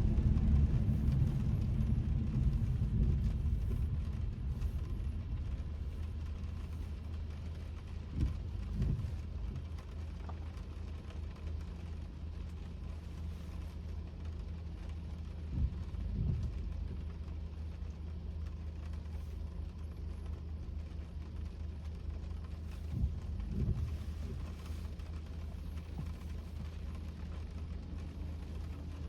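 Cabin noise inside a moving Kia K5: a steady low road and engine hum that eases over the first few seconds. About every seven and a half seconds a brief pair of sweeps, consistent with the windshield wipers running on intermittent in the rain.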